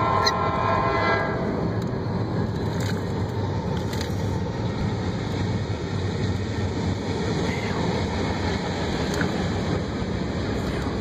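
A Norfolk Southern freight locomotive's horn sounds a chord and stops about a second in. After that comes the steady rumble of the freight train running alongside, heard from inside a moving car.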